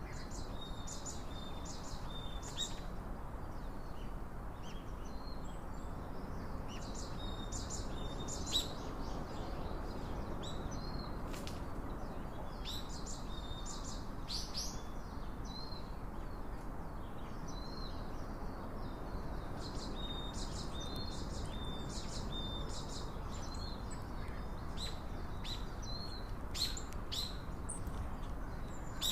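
Small songbirds chirping and calling over and over in short high notes, over a steady low background hiss.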